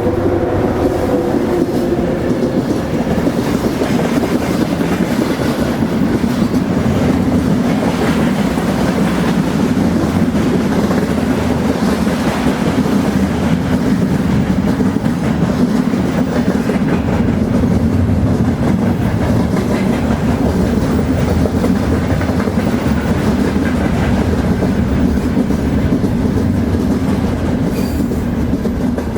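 A train passing over a railway bridge, its wheels clattering steadily over the rail joints in a continuous rumble.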